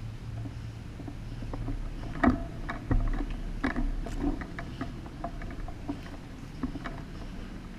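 Irregular knocks and clicks, the loudest two about two and three seconds in, over a steady low hum.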